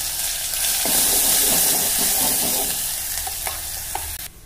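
Hot oil in a steel pot sizzling hard as a spiced, ground onion-and-coconut gravy paste is spooned into it for frying. The sizzle cuts off suddenly near the end.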